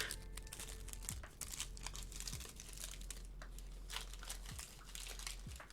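Foil food pouch crinkling as it is handled and torn open, a dense run of irregular crackles.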